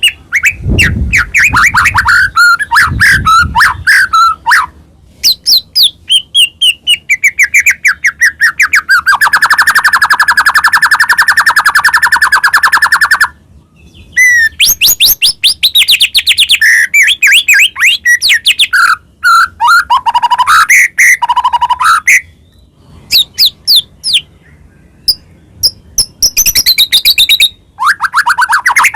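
White-rumped shama (murai batu) singing a loud, fast, varied song of rapid trills and gliding whistled phrases. In the middle comes one long, even, fast trill that cuts off suddenly. A few low thumps sound in the first seconds.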